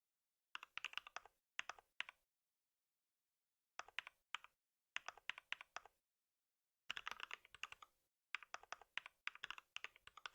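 Typing on a computer keyboard: quick runs of keystrokes in short bursts, with brief pauses between them.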